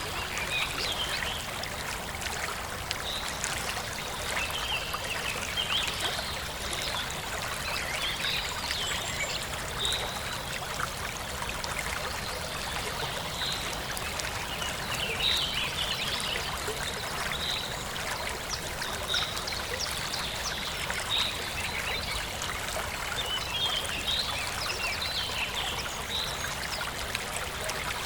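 Forest stream flowing and trickling steadily over stones, with birds chirping: short, high notes repeating every second or two.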